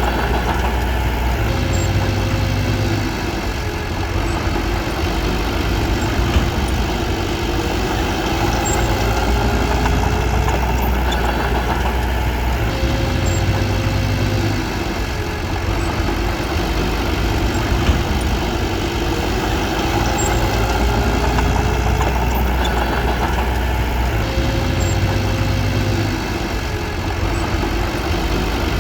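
Bulldozer's diesel engine running steadily. Its note changes in a repeating cycle about every eleven to twelve seconds, with a short dip in loudness each time.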